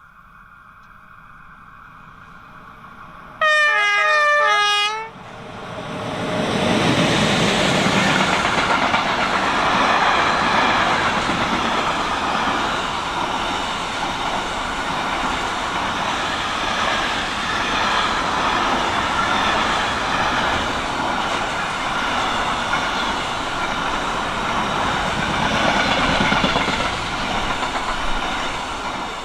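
A train approaching sounds its horn in a brief burst of a second and a half, a few seconds in. It then passes close by for about twenty seconds with loud rolling wheel-and-rail noise, which fades just before the end.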